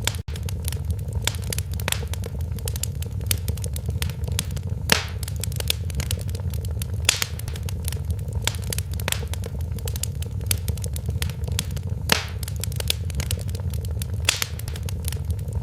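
Wood fire crackling in a fireplace: irregular sharp pops and snaps, a few louder ones about five and twelve seconds in, over a steady low rumble of the flames.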